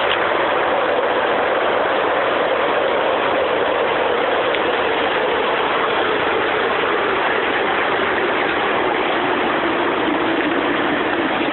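Water gushing steadily out of a burst water service line where it has blown the curb stop box out of the concrete, a loud continuous rushing.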